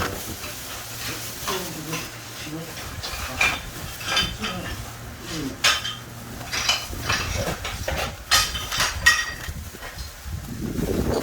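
Hand tools clinking and scraping against ceramic tile in short, irregular strokes during tiling work.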